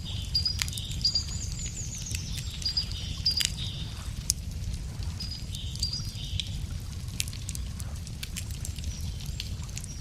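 Wood campfire crackling, with scattered sharp pops and a steady low rumble beneath. A songbird sings repeated high notes, with a short descending trill near the start.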